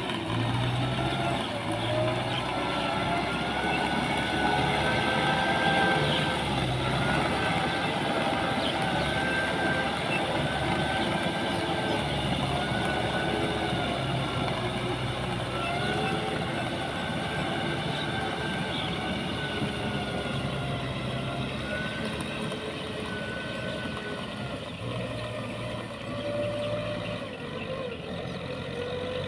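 Diesel engine of heavy farm or earthmoving machinery running steadily, its pitch rising and falling as the load changes.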